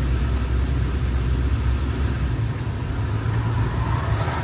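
Steady low road rumble heard from inside a moving car's cabin, with a big truck passing close alongside.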